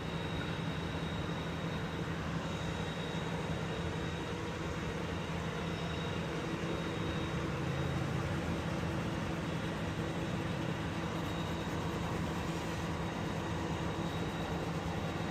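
Steady hum of an idling engine, even throughout, with a faint thin high whine.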